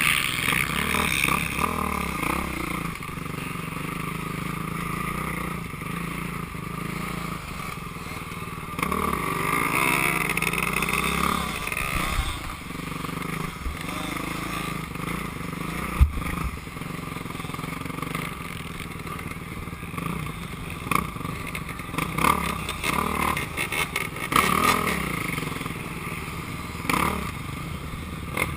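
Dirt bike engine running and revving on a motocross track, its pitch rising and falling with the throttle, with a sharp knock about sixteen seconds in and choppier clattering near the end.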